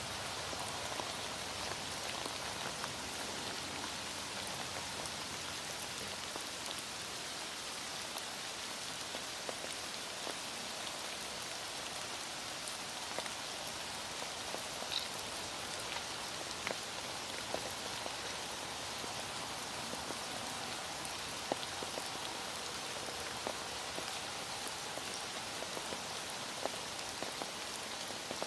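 Heavy rain falling steadily, with scattered sharper drip ticks.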